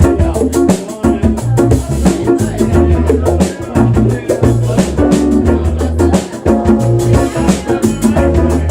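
Live band playing an instrumental passage: drum kit with a steady beat under bass and guitar.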